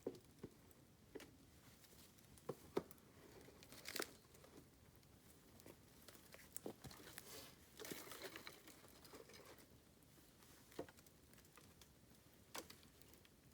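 Bamboo burning in a campfire, giving off faint, irregular crackles and sharp snaps spaced a second or more apart, with a brief run of denser crackling about halfway through.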